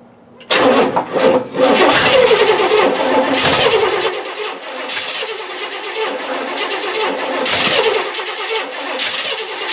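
Starter motor cranking a Cadillac 472 V8 for a compression test, starting about half a second in and running for about nine seconds with an uneven, churning rhythm, then cutting off.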